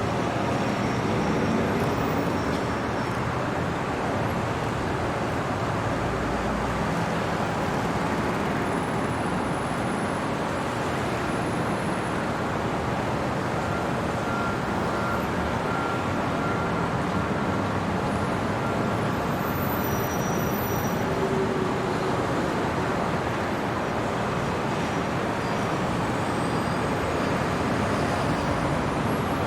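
Steady city traffic ambience: a continuous, even wash of road noise, with a few faint brief high tones over it.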